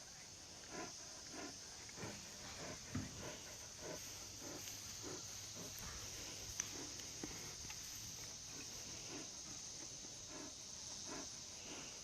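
Insects chirring steadily in a high, even drone, with soft regular pulses about twice a second beneath it.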